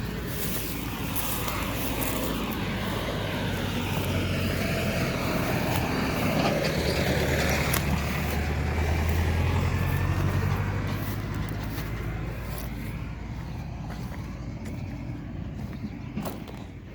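Tractor engine running in the field, growing louder toward the middle as it comes closer, then fading.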